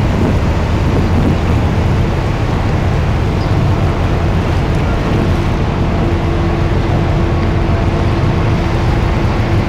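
Tour boat's engine running steadily, a continuous low drone under an even rushing noise, with a faint steady hum coming in about halfway through.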